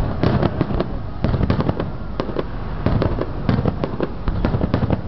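Fireworks going off: many sharp bangs and crackling pops in quick succession, coming in bunches with short gaps between them.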